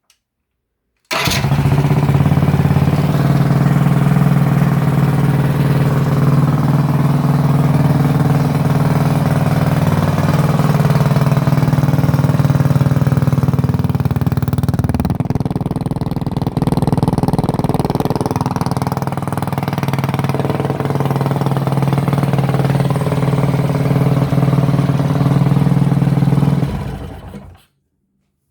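Predator 420 single-cylinder four-stroke engine with a stage 3 kit, running at a fairly steady speed with small rises and dips. It cuts in suddenly about a second in and fades out near the end.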